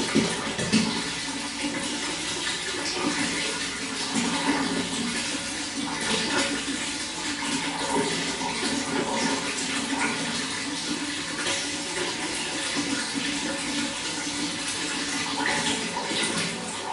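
Running water flowing steadily, a continuous rushing with small irregular splashes.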